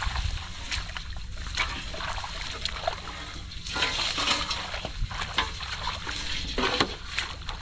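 Shallow muddy water sloshing and splashing as hands grope through it for fish, with many short splashes.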